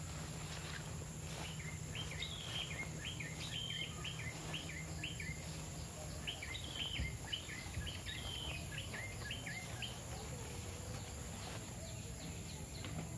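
A small bird singing two runs of quick chirping notes, each a few seconds long, over a steady low rumble of outdoor background noise.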